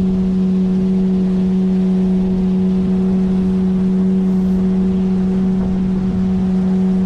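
A 9.8 hp outboard motor running at a steady cruising speed on an inflatable boat, giving a loud, even drone with one fixed pitch.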